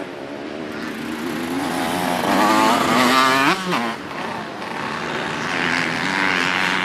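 Dirt bike engine revving, growing louder with a wavering pitch, climbing sharply about three and a half seconds in, then cutting back to a steadier run.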